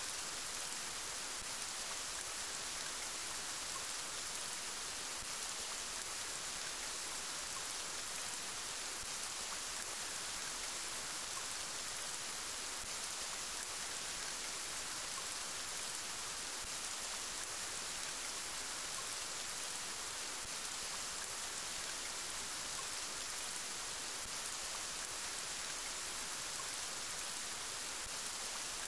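Steady rain falling: an even, unbroken hiss that sits mostly high in pitch and does not change.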